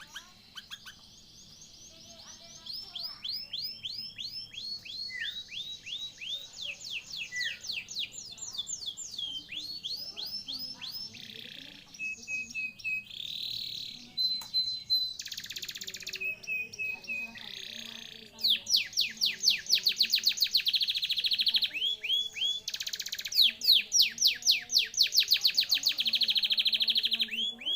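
Domestic canary singing a long song of fast trills, rolls of rapidly repeated downward-sweeping notes. A few steady whistled notes come around the middle, and louder, faster rolls follow in the second half. This is a lure song (pancingan), played to prompt a canary that has stopped singing to start again.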